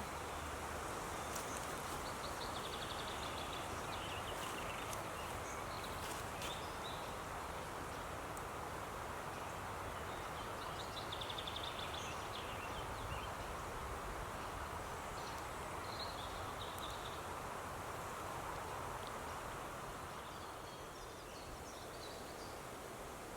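Woodland ambience: a steady rush of wind through the forest leaves, with small birds calling in short trills several times.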